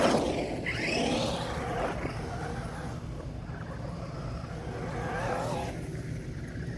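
Traxxas Rustler RC truck's brushed electric motor whining as it revs up and down through wet grass, with pitch sweeps right at the start and again about five seconds in. A steady low rumble runs underneath.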